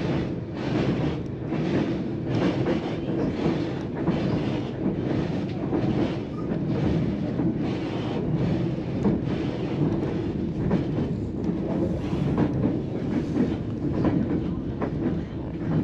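A White Pass & Yukon Route narrow-gauge passenger coach running along the rails: a steady rumble with a clickety-clack of the wheels crossing rail joints, repeating about once or twice a second.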